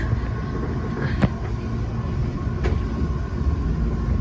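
Eizan Railway 'Kirara' electric railcar running along the track, heard from inside at the front of the car: a steady low rumble with a faint steady whine. Two sharp clicks come through, about a second in and again near three seconds.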